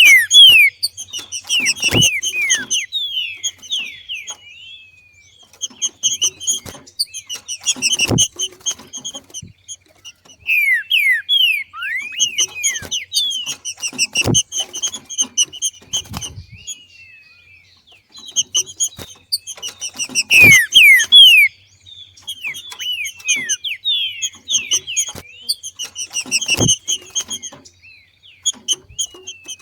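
Female green-winged saltator (trinca-ferro) 'macheando', singing the male-like song: bouts of rapid, descending whistled notes repeated roughly every six seconds. A short dull thump comes with each bout.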